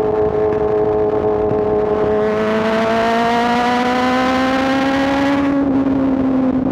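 2024 BMW S1000RR's inline-four engine running under way, steady at first, then accelerating with a rising pitch from about two seconds in. The pitch drops suddenly about five and a half seconds in.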